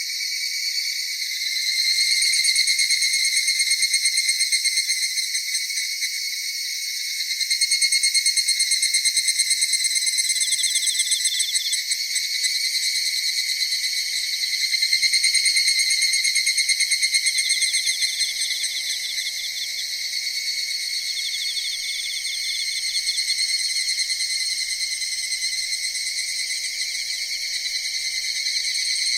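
A chorus of autumn crickets and other singing insects: several overlapping high-pitched trills that swell and fade in long waves.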